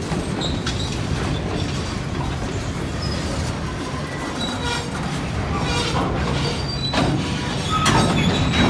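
Train rolling past on the rails: a steady low rumble with brief high-pitched wheel squeals, and a few clanks near the end.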